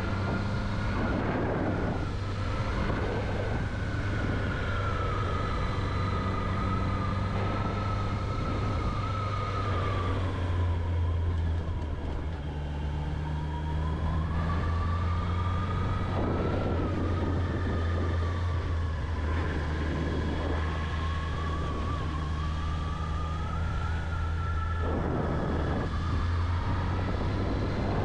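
Honda CB650R's 649 cc inline-four engine running on the move: a steady low drone with a higher whine that rises and falls gently as the revs change. Stretches of wind rush come and go over it.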